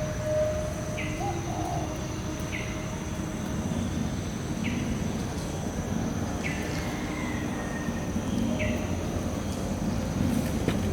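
Outdoor ambience: a bird repeats a short falling call about every two seconds over a steady low rumble and a steady high-pitched whine.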